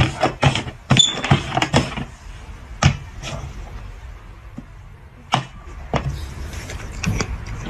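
Hard cups knocked and slid on a tabletop board. A quick run of clacks in the first two seconds, then scattered single knocks.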